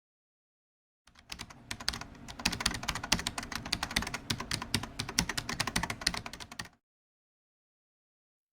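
Rapid, irregular keyboard typing clicks, many per second, starting about a second in and cutting off abruptly before seven seconds.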